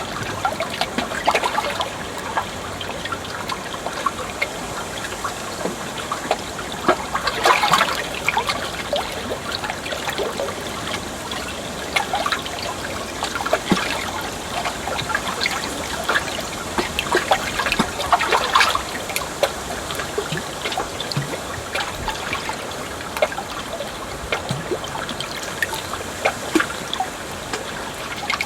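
Water flowing and trickling steadily, with a constant scatter of small splashes and a couple of brief louder spells about a quarter of the way in and just past the middle.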